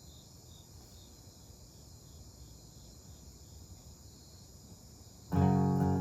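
Faint background hiss with faint, evenly spaced high chirps, about two or three a second. A little over five seconds in, an acoustic guitar comes in loud with a strummed chord, opening the song.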